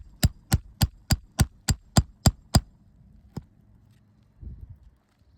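Roofing hammer striking in a quick, even series of light taps, about three a second, with a slight metallic ring; the taps stop about two and a half seconds in, followed by one more tap and a soft thump.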